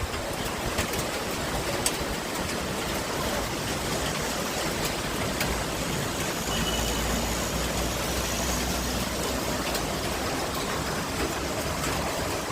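Steady rain falling, an even hiss with scattered sharp drip clicks. A low rumble comes in about six and a half seconds in and fades out a few seconds later.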